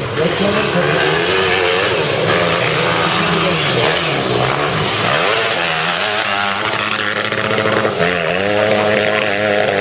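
Several motocross bikes' engines revving on the track, their pitch rising and falling again and again as they overlap.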